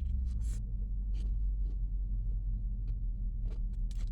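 Mouth sounds of chewing crunchy fried chicken wings: scattered short crunching clicks over a steady low rumble.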